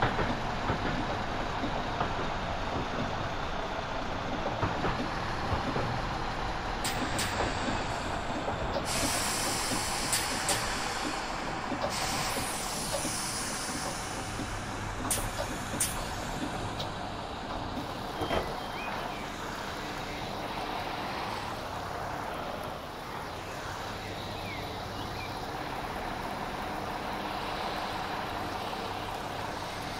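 Class 172 diesel multiple unit with a steady mechanical rumble. About nine seconds in comes a loud burst of compressed-air hiss lasting four to five seconds, with a few sharp clicks around it.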